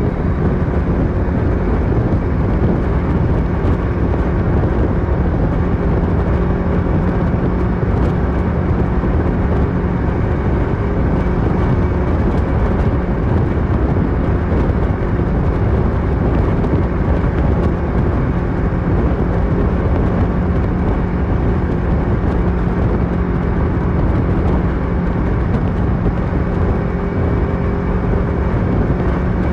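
Kawasaki Versys 650 parallel-twin engine running through a Mivv slip-on exhaust while the motorcycle is ridden, at a steady, even engine note throughout.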